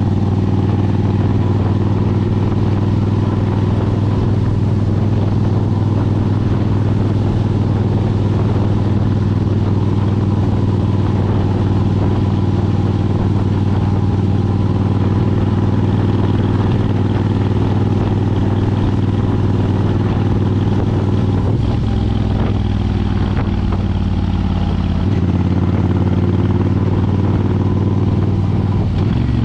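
2003 Suzuki Intruder 1400's 45-degree V-twin running through a Vance & Hines Classic exhaust at a steady engine speed. About three quarters of the way through, the throttle eases for a few seconds, then the engine pulls again.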